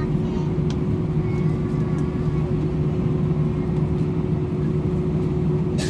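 Steady low rumble of a vehicle's cabin, with a constant hum.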